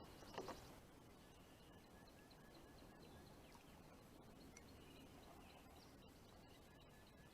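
Near silence: faint outdoor ambience with a few quick series of faint high chirps, and a soft knock just at the start.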